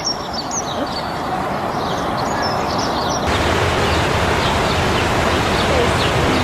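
Outdoor ambience of birds chirping over a steady background hiss. About three seconds in it cuts to a louder, even rushing noise with a low rumble and no clear source.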